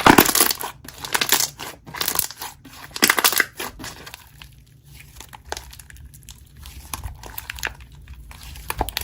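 Slime being squeezed and pressed by hand, a dense run of crackles and pops that thins out and grows fainter after about four seconds.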